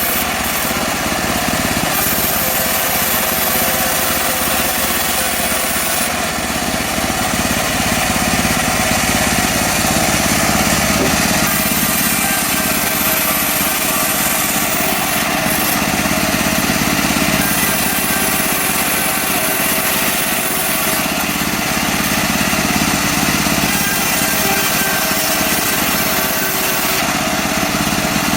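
Portable bandsaw sawmill cutting a mahogany log, its engine running steadily under load with the blade rasping through the wood.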